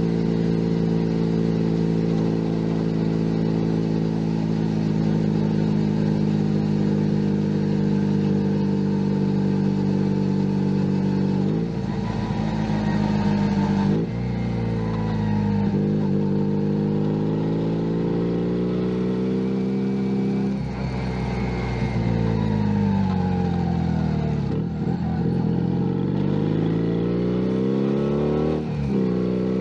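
Junak M11 Cafe's 125 cc single-cylinder engine under way: it holds a steady speed for about the first twelve seconds, then pulls up through the gears, the pitch rising and dropping sharply at each shift. It eases off with a long fall in revs a little past the twenty-second mark, then accelerates again with another shift near the end.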